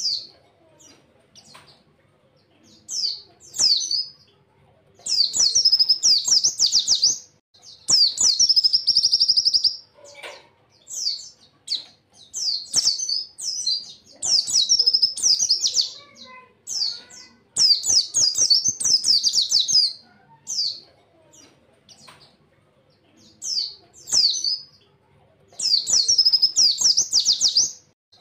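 White-eye (pleci) singing in short bursts of very fast, high-pitched trilling notes, each burst a second or two long with brief pauses between: the rapid 'tembakan' song prized in songbird contests.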